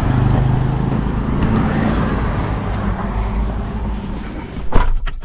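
A motor vehicle's engine and road noise running steadily, with a sharp knock near the end.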